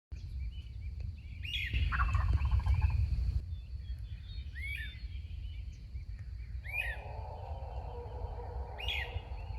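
Osceola wild turkey gobbling, a rapid rattling call about two seconds in, with another pulsed stretch later. A small bird chirps about every two seconds over a steady low rumble.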